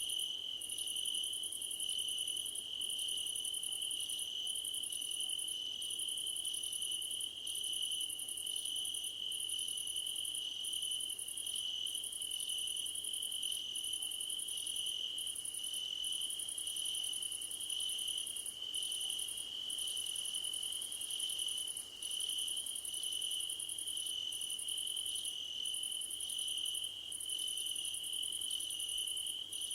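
Chorus of field crickets singing in grass: one steady, unbroken high trill, with a higher chirping that pulses on and off about once a second.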